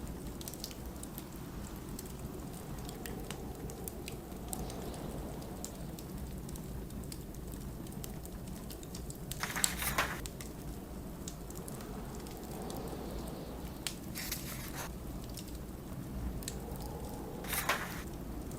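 Snowstorm wind making a steady low rumble under a crackling wood fire's small pops. Book pages are turned three times, rustling briefly about halfway through, again a few seconds later and near the end.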